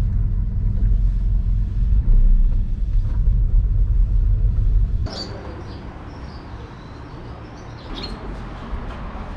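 A low, steady rumble from the Honda S660 on the move, which stops suddenly about five seconds in. Quieter open-air ambience follows, with a few short bird chirps.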